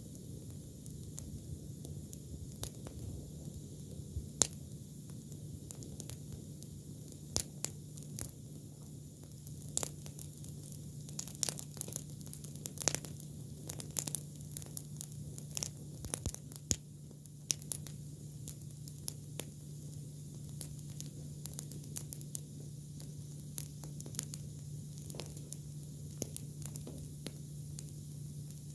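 Campfire of fresh, green cudrania (silkworm thorn) branches crackling, with irregular sharp pops that come thickest in the middle, over a steady low hum.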